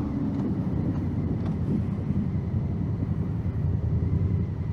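Honda Africa Twin 1000cc parallel-twin engine running steadily while the motorcycle is ridden, heard as a low rumble.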